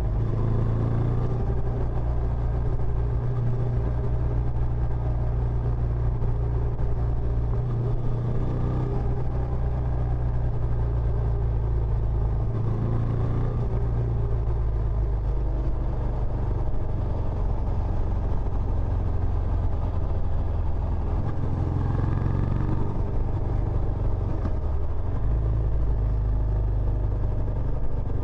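Benelli Imperiale 400's air-cooled single-cylinder engine running through its stock exhaust: a steady, deep exhaust note with slight shifts in pitch.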